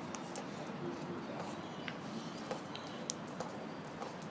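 Faint scattered clicks and taps over a steady low background hiss, from birds pecking at food.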